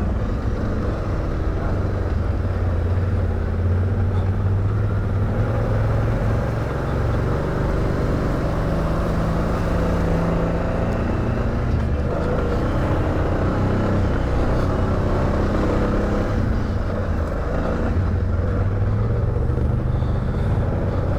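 ATV engine running steadily at low speed, its pitch shifting a little as the throttle changes.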